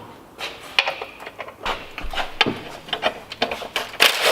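Scattered metallic clicks and knocks of hand tools working on a car's exhaust fittings, then near the end a power tool starts up loudly with a repeating falling whine.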